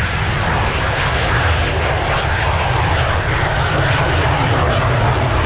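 Jet truck's jet engine roaring steadily, with a deep rumble under a wide rushing hiss.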